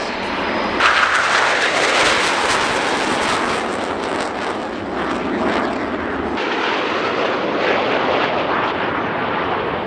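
Jet aircraft flying past: a loud rushing noise that comes in sharply about a second in, then slowly loses its higher tones over the last few seconds as it moves away.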